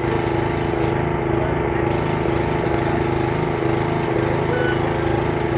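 Radio-control model airplane engine running steadily at a constant speed on the ground.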